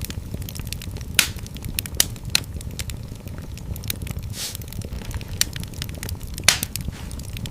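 Wood fire burning in a fireplace: a steady low rumble of flames with irregular crackling and several sharper pops, and a short hiss about halfway through.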